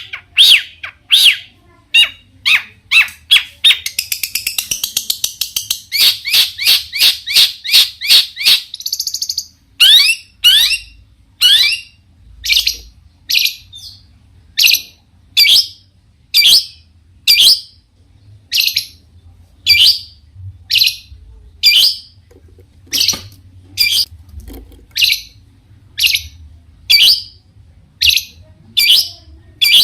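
Long-tailed shrike (cendet) singing hard: rapid chattering notes and a fast trill over the first nine seconds or so, then loud, sharp calls repeated about once a second.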